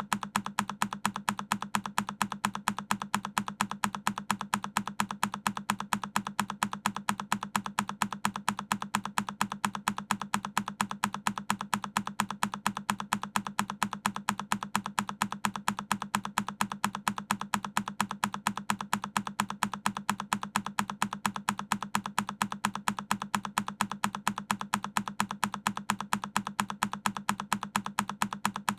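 A single key on a Keychron K10 mechanical keyboard pressed over and over in a loop: one sharp key click with a low thock, repeating evenly several times a second.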